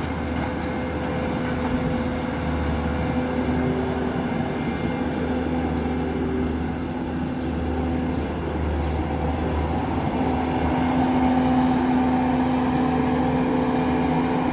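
An engine running steadily with a low, even hum that grows a little louder about ten seconds in.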